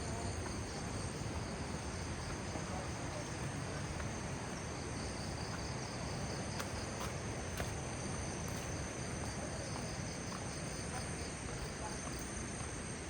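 Steady, high-pitched chorus of crickets and other insects over a continuous low background rumble.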